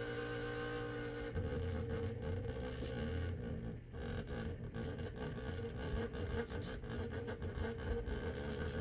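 A small electric motor running steadily, with a few light clicks and scrapes.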